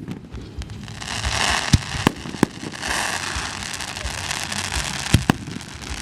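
Fireworks display: about five sharp bangs of shells bursting, with a crackling hiss of smaller effects between the bangs from about one to three seconds in.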